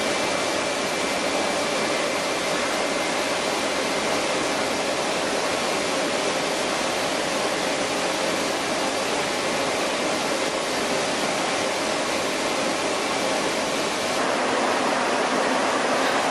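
Chili powder milling machinery running steadily: a constant loud rushing noise with a faint steady hum in it, which shifts and grows slightly louder about 14 seconds in.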